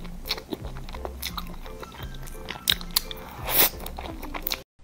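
Close-miked biting and chewing of a soft dessert, with sharp wet mouth clicks, over background music with a repeating bass line. The sound cuts off suddenly near the end.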